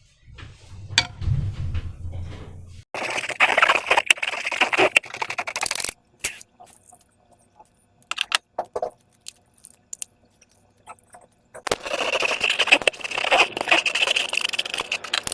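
Slime being worked by hand: sticky crackling and clicking in two long bursts, the second starting a little past the middle, with a low rumble in the first few seconds and scattered clicks between the bursts.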